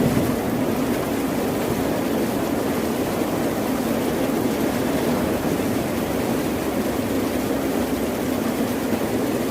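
Steady ocean surf: a continuous low rushing roar with no separate wave breaks standing out.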